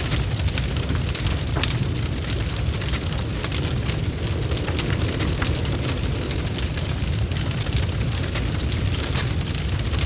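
Wood fire crackling: frequent sharp snaps and pops, irregularly spaced, over a steady low rumble.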